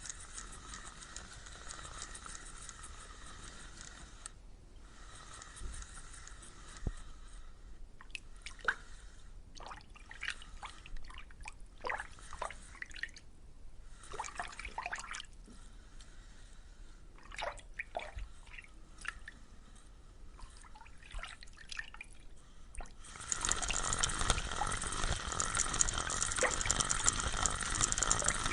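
Water dripping and splashing in short falling-pitch plops over a faint steady tone. About 23 seconds in, it turns into a louder, continuous rush of running water.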